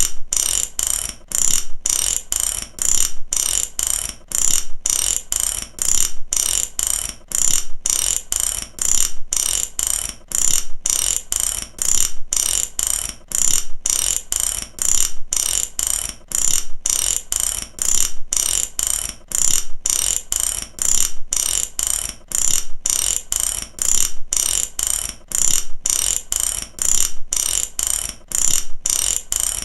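Mechanical ratchet clicking in a steady repeating rhythm: short bursts of rapid pawl clicks about twice a second, without a break.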